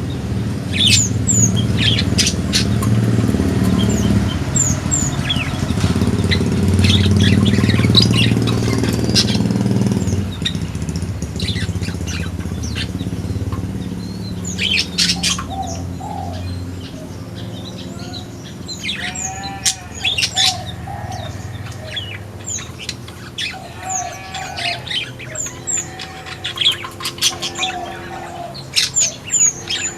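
Small aviary birds chirping and calling in short, high sweeps throughout, with some wing-flapping. A low rumble sits under the calls for the first third and fades about ten seconds in.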